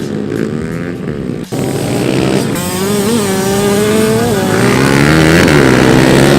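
Pit bike engines revving as the small motorcycles race, pitch rising and falling with the throttle and breaking off abruptly about a second and a half in.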